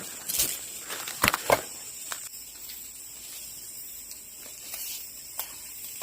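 Forest ambience: a few sharp knocks and rustles in the first two seconds, then fainter scattered ticks over a steady high hum.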